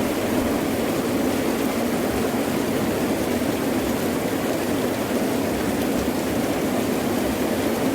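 Heavy rain pouring steadily, an even wash of noise with no single drops or thunder standing out.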